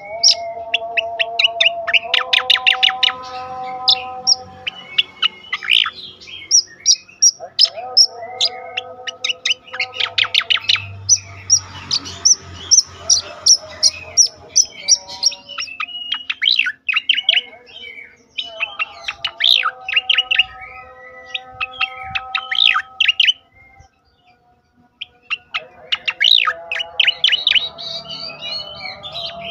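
Sooty-headed bulbul (cucak koreng) singing: fast runs of sharp repeated chirps over lower, held whistled notes, with a brief pause near the end.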